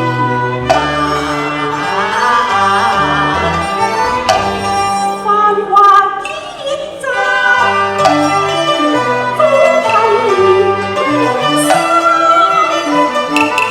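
Instrumental interlude of a Cantonese opera song accompaniment: a violin leads the melody over a stepping bass line.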